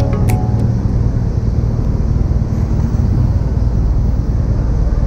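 Yamaha SR250's single-cylinder four-stroke engine idling with a steady low rumble.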